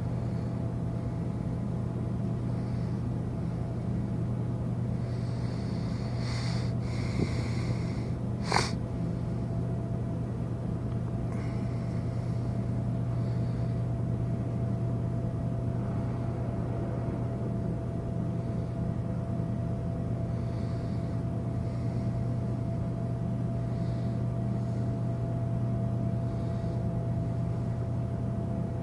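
Steady low rumble and hum of the cruise ship Mein Schiff 4's machinery as it berths, with a thin steady whine above it and a single sharp click about eight and a half seconds in.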